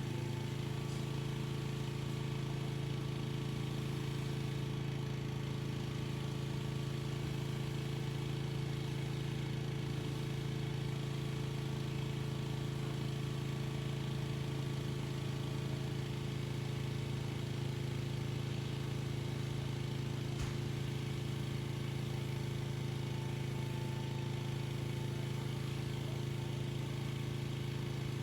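Pressure washer's small engine running steadily under constant load, a continuous even hum.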